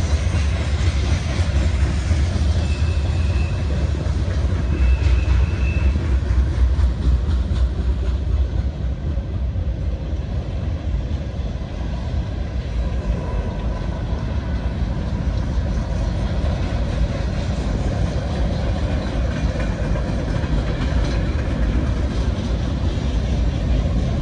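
Union Pacific manifest freight train's covered hoppers and empty centerbeam lumber flatcars rolling past close by: a steady heavy rumble of steel wheels on rail, with two short high squeals about three and five seconds in.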